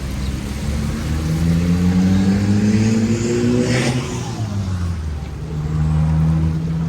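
A motor vehicle's engine accelerating past, its pitch rising for a few seconds and then dropping as it goes by, leaving a steady low engine hum.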